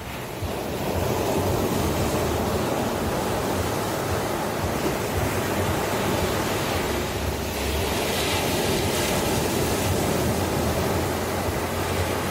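Ocean waves breaking and washing on the shore in a continuous rush, swelling about a second in and brightening again near the middle as a wave breaks.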